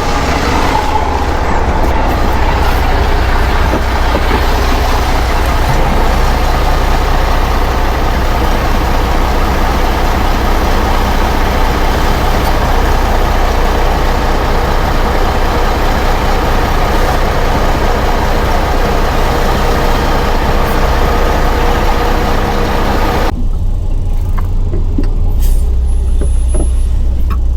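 Truck's diesel engine running with a loud, steady rushing hiss over it, typical of a rapeseed load pouring out of the trailer during unloading. The hiss stops abruptly near the end, leaving the engine's low rumble.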